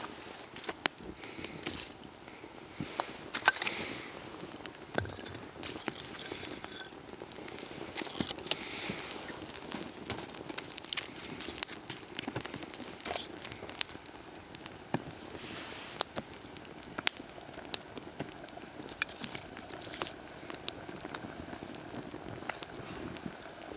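Open wood fire crackling, with irregular sharp pops and snaps.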